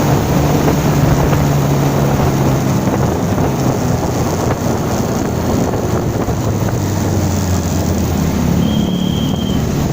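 Motorcycle engine running under way with wind rushing over the microphone; the engine note drops to lower revs about three seconds in. A brief high beep sounds near the end.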